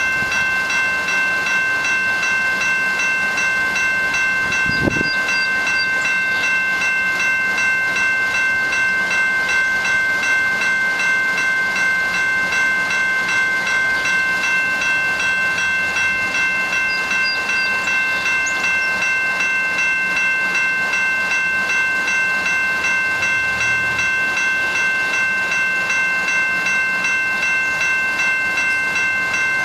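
GO Transit diesel commuter train running, with a steady high-pitched whine held at a constant pitch throughout. There is a single short knock about five seconds in.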